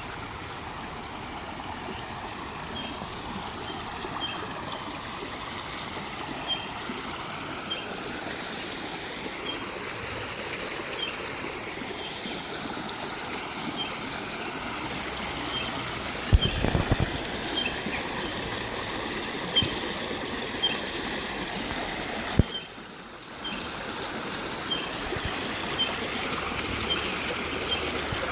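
Shallow creek water trickling and running steadily over rocks. A faint, short high peep repeats about once a second, and a loud bump comes about halfway through.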